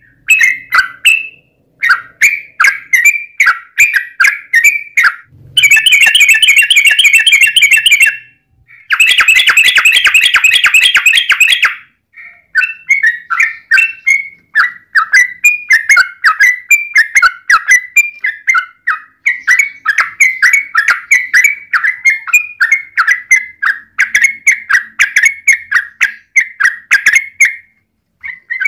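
Yellow-vented bulbul (trucukan) singing a long run of quick, bubbly chattering phrases, sung hard in the agitated 'fighting' style. Twice, about six and nine seconds in, it breaks into a louder, denser rapid rattle lasting two to three seconds.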